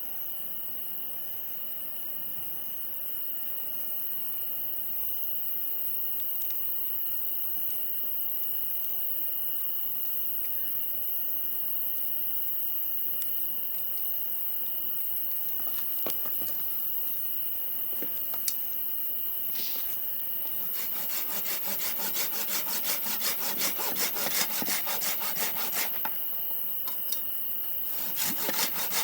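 Hand sawing of wood: fast, even saw strokes start about two-thirds of the way in, pause briefly, and start again near the end. Before that there is a steady background with a few sharp clicks.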